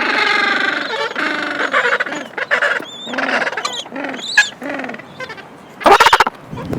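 A colony of penguins calling, many overlapping harsh, braying calls: one long loud call at the start, then shorter calls one after another, and a loud brief burst about six seconds in.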